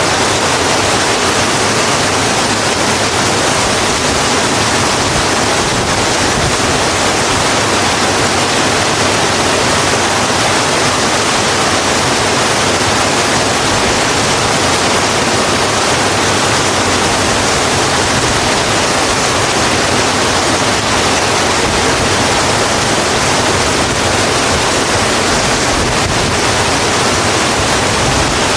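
Steady heavy rain falling, an even hiss with no single drops standing out.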